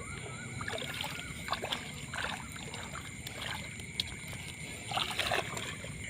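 Water splashing and sloshing lightly in a few short bursts, over a steady high-pitched background hum.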